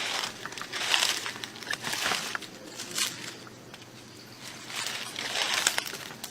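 Footsteps crunching through dry leaves and brush, a few uneven steps about a second apart.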